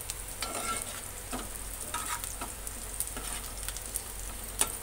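Sliced onions, curry leaves, green chillies and cumin sizzling in hot oil in a stainless steel pot, stirred with a steel ladle that scrapes and clicks against the pan, with a sharper clink near the end. The onions are being fried until half-done before the spices go in.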